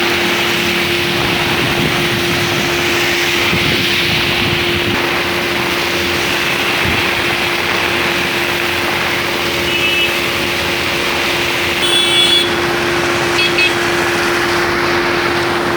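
Heavy rain pouring down in a steady loud hiss, with a constant low hum underneath. A few short high chirps come through about two-thirds of the way in.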